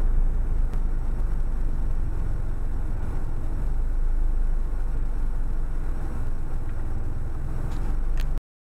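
Car on the move: a steady low rumble of engine and road noise that cuts off abruptly near the end.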